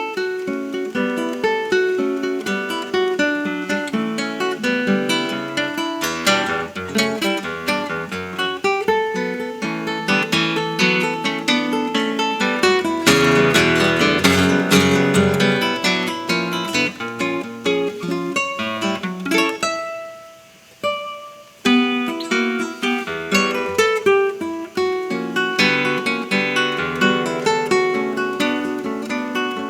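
Solo acoustic guitar playing a tango-style recital piece: plucked melody and chords, swelling into a louder strummed passage about halfway through, then dying away almost to a stop before a single note and the playing picking up again.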